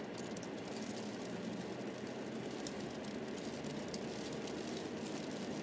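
Car driving along a street: a steady run of engine and road noise, with faint light rattles.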